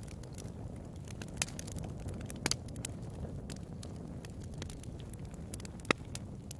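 Wood fire crackling in a fireplace: scattered sharp pops and snaps over a low steady rumble of the flames, with the loudest pop near the end.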